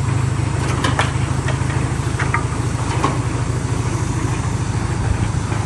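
Tractor-driven hydraulic wood chipper running, with a steady low engine drone and a few short sharp knocks.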